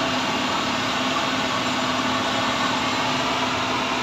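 Engine running steadily, with a constant low hum under an even wash of noise.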